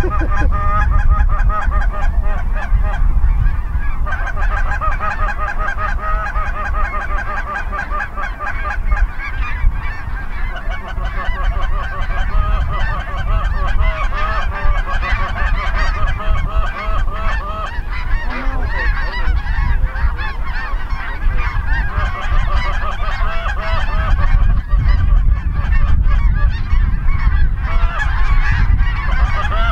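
A large flock of geese calling together: a continuous chorus of overlapping honks with no let-up, over a steady low rumble.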